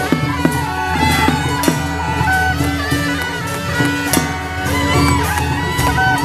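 Taiwanese temple ritual music: shrill suona double-reed horns play an ornamented, bagpipe-like melody over sharp percussion strikes.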